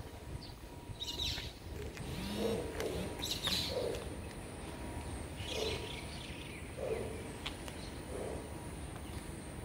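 Outdoor birdsong: a few short high chirps and a lower note repeated about once a second, over a steady low background rumble.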